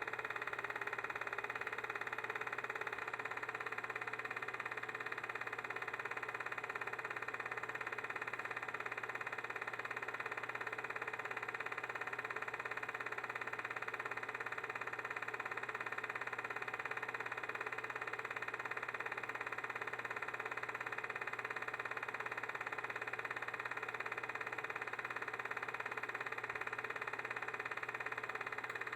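Steady, unchanging mechanical hum with hiss.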